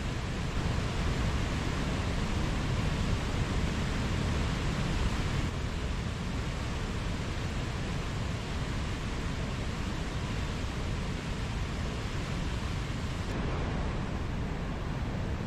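Mountain stream flowing: a steady, unbroken rush of water, its tone shifting slightly about five seconds in and again near the end.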